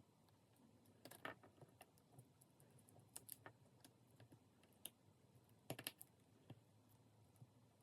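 Faint, scattered clicks and taps of small repair tools on the parts of an opened smartphone, with a short cluster of clicks near the middle and another a little later.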